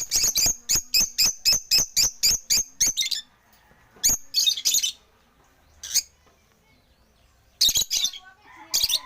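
African lovebirds chirping: a rapid run of sharp, high-pitched chirps, about four a second, for the first three seconds, then scattered bursts of chirps.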